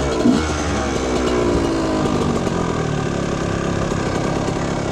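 1995 Yamaha YZ125's single-cylinder two-stroke engine coming down off a rev in the first second, then idling steadily.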